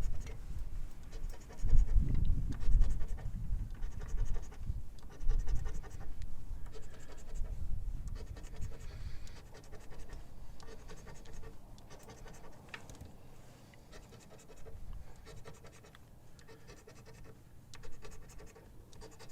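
Scratch-off lottery ticket being scratched, the latex coating rubbed off in short irregular strokes, louder in the first few seconds.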